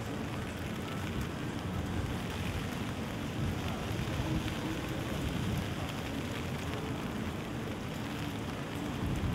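Steady rain falling, with a low, even rumble underneath.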